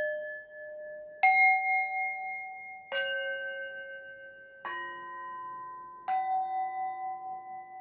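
Bell tones struck one at a time, about every second and a half, each at a different pitch and each left to ring and fade into the next. There are four strikes over the ring of one struck just before. The lowest note comes about two-thirds of the way through, and the last strike goes back up.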